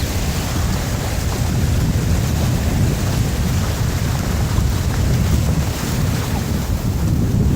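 Ocean surf washing steadily onto a beach, with wind buffeting the microphone in a heavy low rumble.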